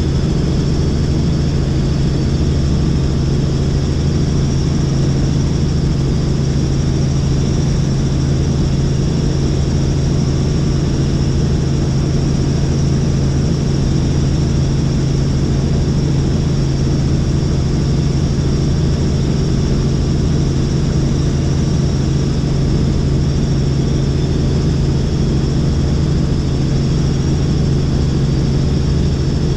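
Helicopter in flight: a loud, steady engine and rotor drone with a constant high whine above it.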